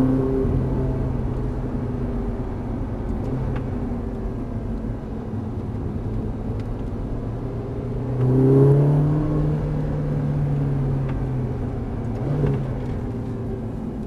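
Ferrari engine heard from inside the cabin, running at moderate revs as the car slows on the track, with tyre and road noise underneath. About eight seconds in the revs swell briefly and fall back.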